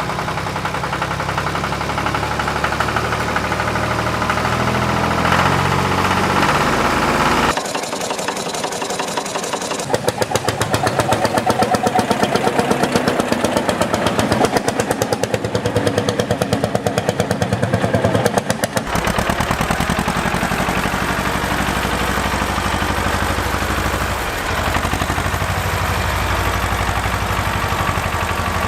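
Tractor engine running with no speech: a steady low idle, then about seven seconds in a quicker, even chugging that lasts until about nineteen seconds in, after which it settles back to a steadier low running.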